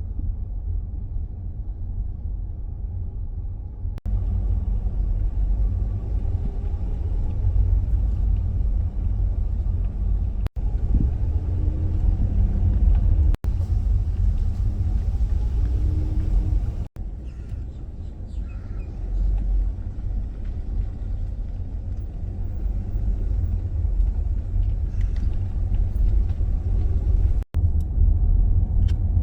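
Steady low road and engine rumble inside the cabin of a Dodge Grand Caravan minivan on the move, broken by a few brief dropouts.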